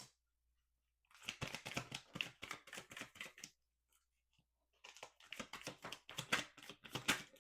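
A deck of tarot cards being shuffled by hand: two spells of quick, papery card-on-card flicking, the first starting about a second in and the second near the end.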